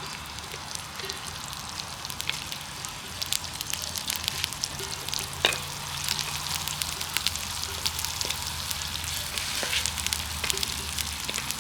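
Food frying in hot oil in a pot over a wood fire: a steady sizzle full of small pops and crackles, with one sharper pop about halfway through. It cuts off abruptly at the end.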